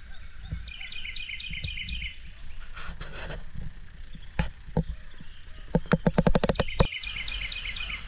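A songbird singing a short, fast, repeated chirping phrase about a second long, about a second in and again near the end, over a low rumble. Near three-quarters through comes a quick run of about a dozen sharp taps lasting under a second.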